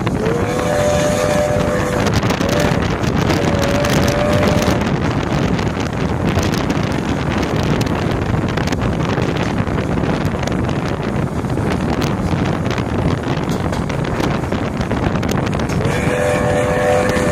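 Passenger train hauled by a 1931 steam locomotive running, heard from an open carriage window: a steady rumble of the running train mixed with wind on the microphone. A held pitched tone of a few notes sounds in the first seconds and again near the end.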